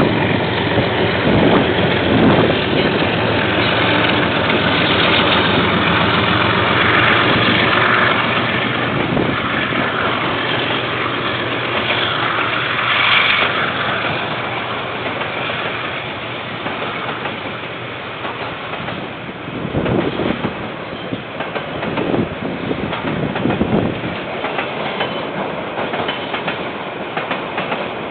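A KiwiRail diesel train passing, its wheels clattering over the rail joints. A steady engine note is heard in the first half, and the sound eases somewhat after the middle.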